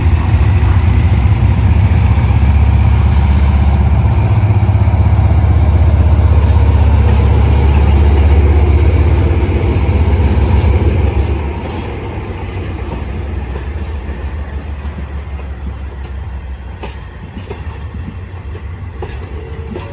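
Diesel train running close by with a loud, deep engine rumble that drops off sharply about eleven seconds in, leaving a quieter rumble.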